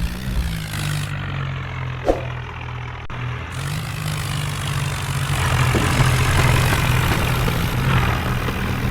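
Tractor diesel engine running steadily, picking up revs again about three and a half seconds in and getting louder through the second half. A single sharp click about two seconds in.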